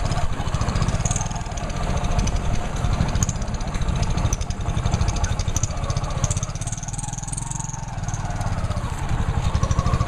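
Motorcycle engine of a tricycle running steadily, heard from inside its sidecar.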